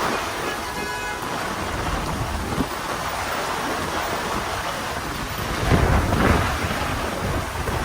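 Heavy rain falling steadily on a city street, with a deep low rumble about six seconds in.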